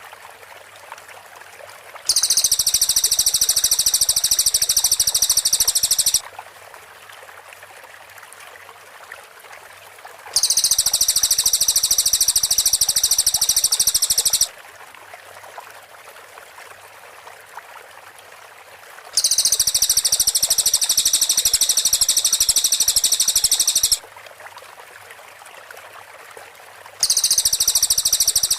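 Cililin songbird song from a masteran training recording: four bursts of very high, rapid, tightly packed chattering notes, each about four seconds long, separated by pauses of a few seconds.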